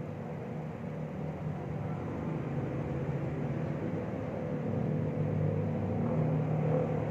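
Low, steady motor hum with a few held tones, slowly growing louder.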